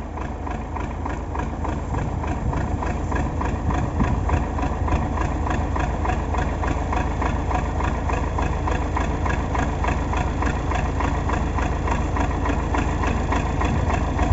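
MTZ (Belarus) tractor's diesel engine running steadily at idle, with an even, fast chugging beat.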